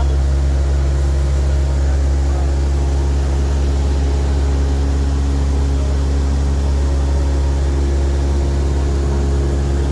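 Small airplane's piston engine and propeller droning steadily, a loud, even, low hum with no change in pitch.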